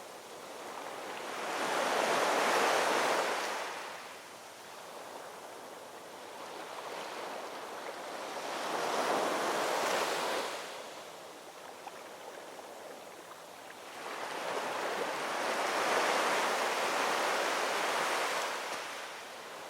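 Ocean waves rolling in and washing on the shore, three swells, each building and fading over several seconds, over a steady surf hiss.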